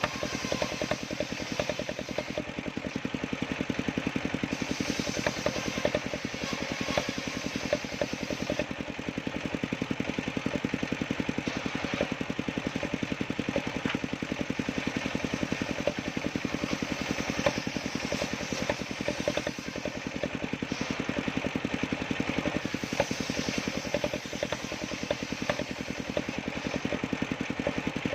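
Engine of a motor-driven wood saw running steadily with rapid, even firing pulses and no clear change in load.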